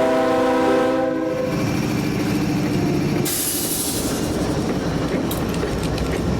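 A diesel freight locomotive's multi-chime air horn sounds a chord that cuts off a little over a second in. The locomotives then rumble past, with a burst of hiss about three seconds in and wheels clicking over the rail joints.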